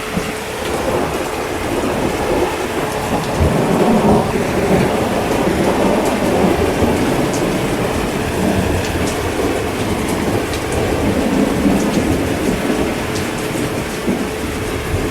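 Steady heavy rain with rolling thunder rumbling through it, the rumble swelling about half a second in and loudest around four seconds in.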